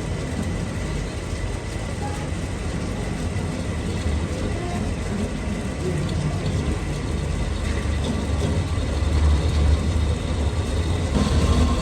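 Machine-shop machinery running steadily: a low hum with a faint steady whine, growing slightly louder about nine seconds in.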